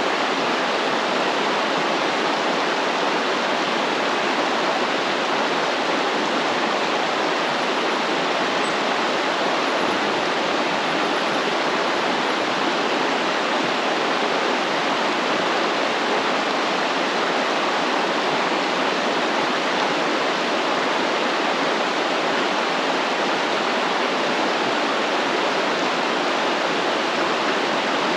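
Stream flowing: a steady, even rush of water.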